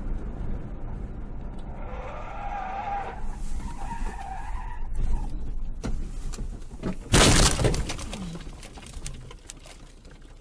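Car crash heard from inside a car: steady road rumble, tyres squealing for a few seconds, then a loud crash about seven seconds in with breaking and rattling debris.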